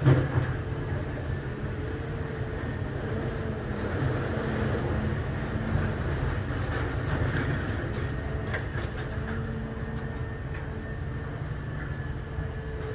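Idromec T650 CLS scrap metal shear baler running: a steady heavy rumble with a faint steady whine, a heavy thump right at the start, and scattered metallic clanks partway through.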